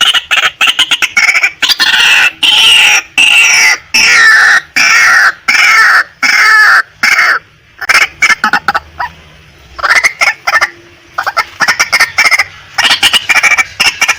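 White-breasted waterhen calling loudly: runs of rapid, harsh, clipped notes, with a stretch of longer repeated calls in the middle and a short lull about ten seconds in, before the rapid notes resume.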